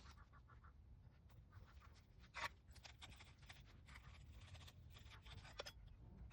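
Near silence with faint scratching and scattered light clicks, the clearest about two seconds in.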